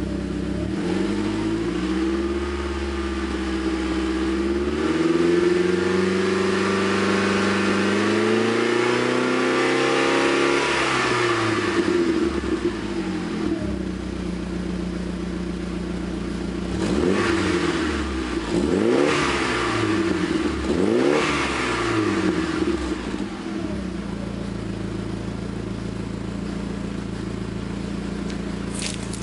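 Saab 9-5's exhaust with a 3-inch downpipe and Abbott Racing sports centre section and backbox, the engine idling then revved slowly up and let fall back. It is then blipped three times in quick succession and settles back to idle.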